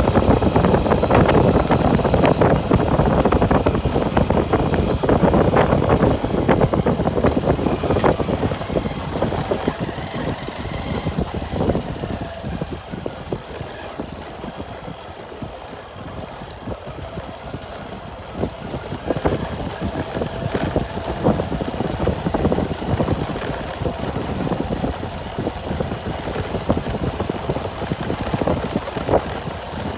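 Motor vehicle engine running on the move. It eases off around the middle and then builds up again.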